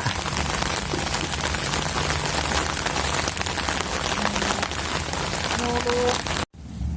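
Storm rain falling steadily, a dense hiss made of countless drop hits. It cuts off abruptly about six and a half seconds in.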